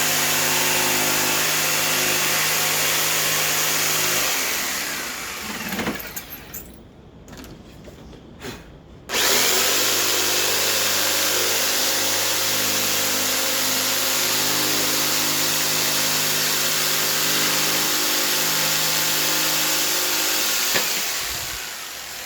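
Electric power saw running steadily while cutting a traced curved side piece out of a wooden board. It shuts off and winds down about four seconds in, starts again after a few quiet seconds, runs steadily, and stops near the end with a click.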